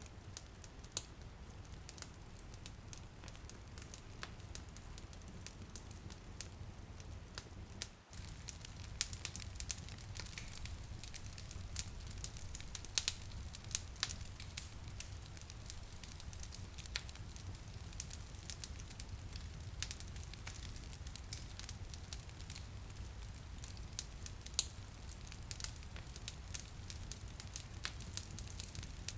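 Wood fire crackling, with frequent sharp pops and snaps over a steady low rumble, and a faint hiss of light rain on a window beneath it. The sound drops out for a moment about eight seconds in.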